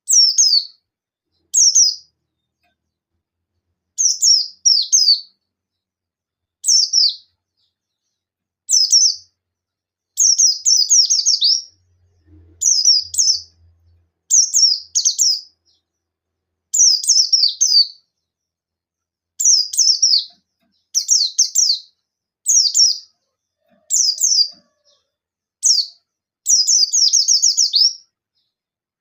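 White-eye (pleci buxtoni) singing its rapid 'nembak' song: short bursts of fast high chirps, one every second or two with brief pauses between, a full-voiced call to a rival.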